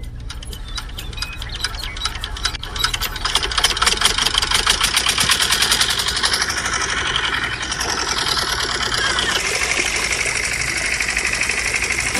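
Small engine running with a fast, even knocking beat that grows louder a few seconds in, then settles into a steadier whir.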